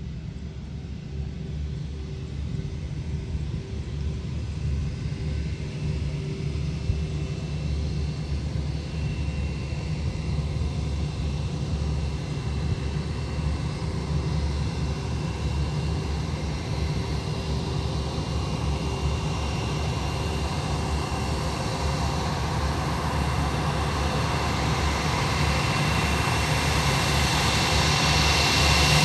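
Airbus A320 jet engines running, a steady low rumble with a high whine and hiss that grow gradually louder as the jet draws closer.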